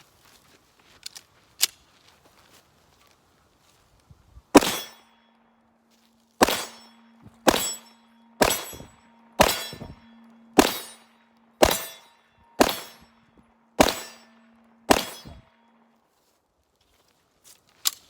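Ten pistol shots from a Walther PPQ Q5 Match, about one a second, starting a few seconds in. AR500 steel targets ring with a steady metallic tone under the shots as they are hit.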